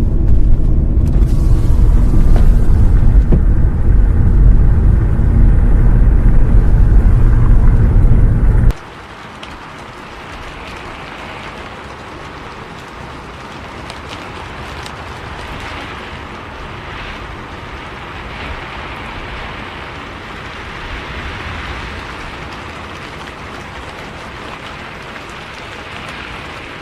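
Steady low rumble of a moving bus's engine and road noise, mixed with rain; about nine seconds in it cuts off abruptly, leaving a softer, even hiss of falling rain.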